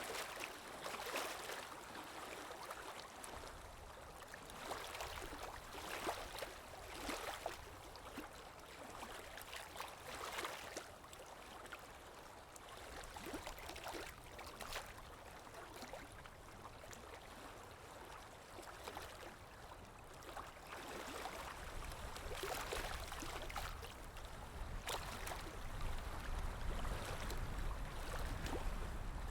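Ocean waves washing and splashing with irregular bursts of spray, and a deeper rumbling wash building over the last several seconds.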